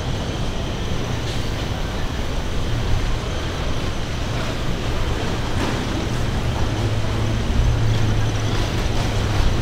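A large engine running steadily with a deep hum, which gets a little louder about two-thirds of the way through, over street noise.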